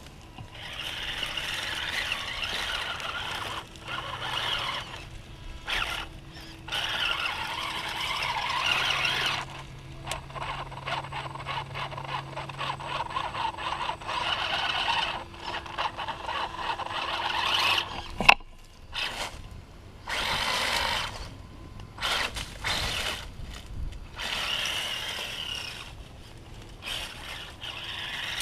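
RC rock crawler's electric motor and geared drivetrain whining in repeated bursts of a few seconds each as the throttle is worked on and off, with a single sharp knock about 18 seconds in.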